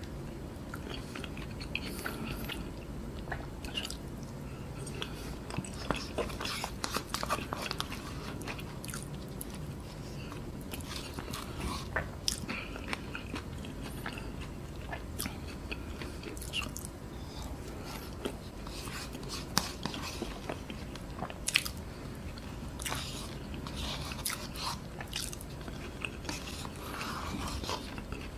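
Close-miked chewing and eating of KFC loaded fries: mashed potato, corn, cheese sauce and popcorn chicken. Wet mouth sounds with many scattered sharp clicks and smacks.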